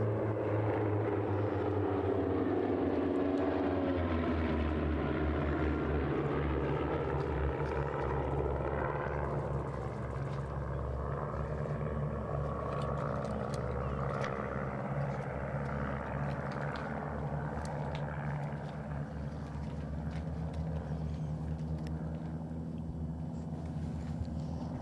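Propeller airplanes of a formation team flying past with a steady engine drone. The pitch falls over the first few seconds as they go by, then the drone goes on a little quieter.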